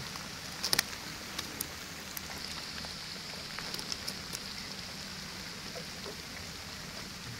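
Steady rain hiss, with a few short sharp ticks in the first couple of seconds.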